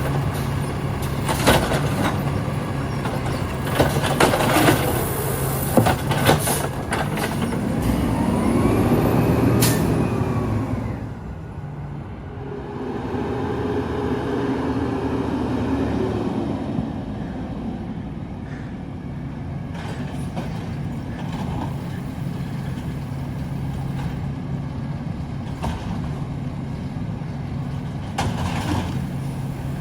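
Garbage truck's diesel engine running, revving up and back down about eight seconds in and again a few seconds later, with several sharp clanks and bangs in the first ten seconds.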